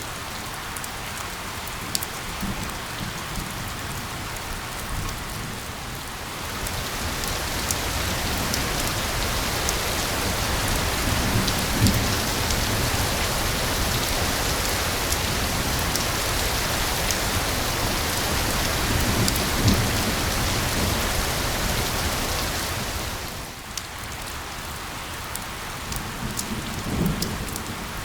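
Steady rain falling, with a heavier downpour swelling in about six seconds in and easing back a few seconds before the end. Scattered drop ticks and occasional low rumbles come through the hiss.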